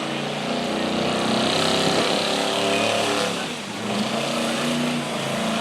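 Farm tractor engine running at moderate speed, its pitch shifting up and down, with a brief drop in loudness about three and a half seconds in.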